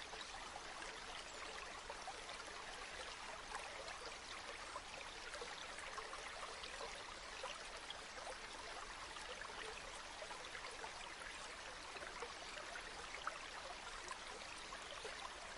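Stream water flowing and babbling steadily, a continuous even rush with fine splashing detail.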